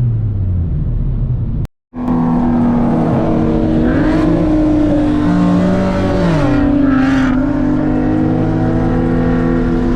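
Car engine running at fairly steady revs, its note shifting in pitch a few times, with a brief total dropout about two seconds in where the audio cuts.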